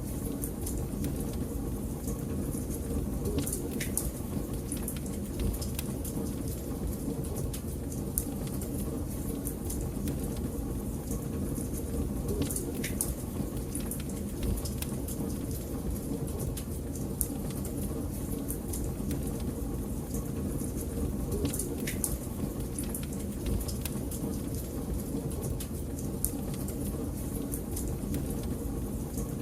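Wood fire crackling: a steady low rumble of burning with frequent irregular small pops and snaps.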